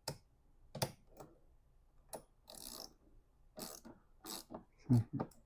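Ratchet wrench clicking in short, irregular strokes, with brief scrapes in between, as a battery terminal clamp nut is snugged up.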